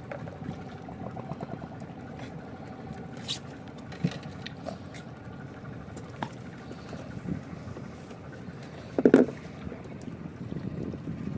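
Low, steady rumble of water moving around a small fishing boat, with scattered light knocks and clicks of tackle against the hull, and one louder short knock or cry about nine seconds in.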